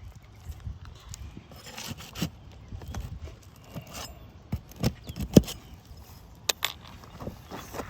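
Irregular knocks, taps and scrapes from hands, tools and footsteps on an asphalt shingle roof during a shingle repair, with the sharpest knock a little after five seconds in.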